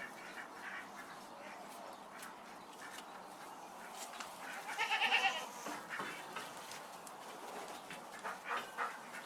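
Farm animals calling: scattered short calls, and one louder, wavering call about five seconds in.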